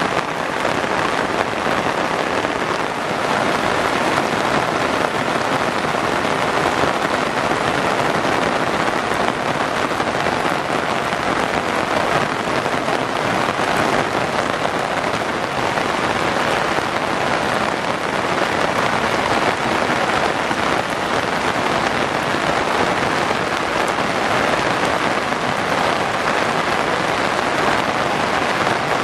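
Steady heavy rain falling on surfaces, a constant even hiss of pattering drops.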